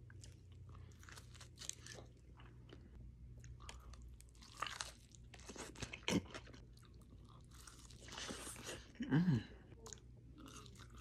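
A person chewing and biting food close to the microphone: soft, irregular mouth noises with crunches and smacks.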